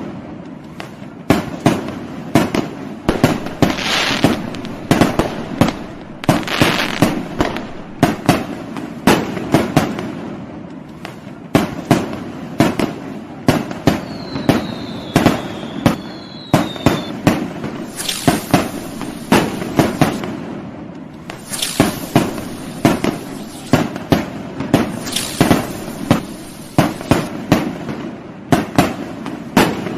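Fireworks going off continuously: many irregular sharp bangs and crackling, with two short falling whistles about halfway through.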